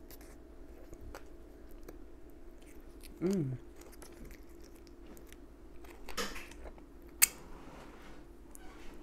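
Close-miked chewing and mouth sounds of a person eating a bite of egg roll. About three seconds in there is a short hummed "mm", near six seconds a brief rustle, and just after seven a single sharp click.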